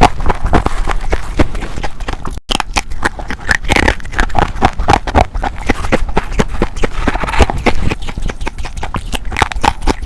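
Close-up crunching of humidifier ice being bitten and chewed: a rapid, uneven run of loud crisp crunches, broken by a short cut about two and a half seconds in.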